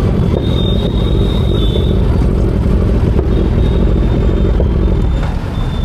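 Kawasaki Z900's inline-four engine running steadily as the bike rides along, a loud, unbroken low rumble.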